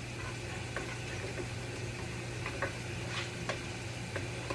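Food frying quietly in a pan on the stove: a soft sizzle with scattered small pops and crackles, over a low steady hum.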